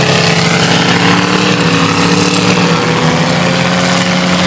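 Demolition derby cars' engines running loud and steady under load, one engine's pitch slowly rising.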